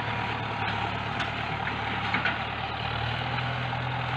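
Farm tractor engine running steadily while plowing, its note rising slightly about three seconds in.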